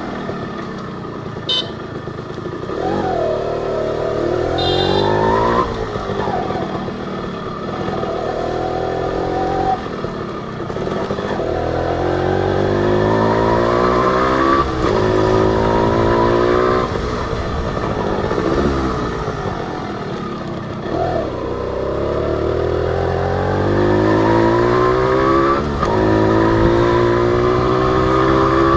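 Honda H100S single-cylinder two-stroke motorcycle engine under way, its pitch climbing through the revs and dropping back again and again as the rider accelerates and shifts gear.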